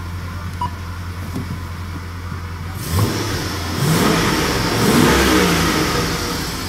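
Holden Statesman's 5.7-litre LS1 V8 coming up loud about three seconds in, then revved, its pitch rising to a peak and falling back as the revs drop.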